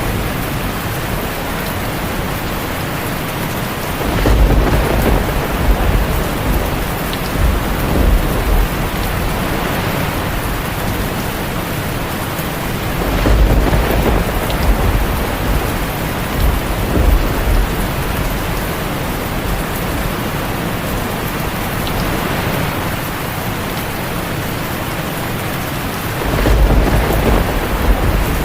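Heavy rain drumming steadily on a tin roof, with thunder rumbling in three long swells: about four seconds in, near the middle, and again near the end.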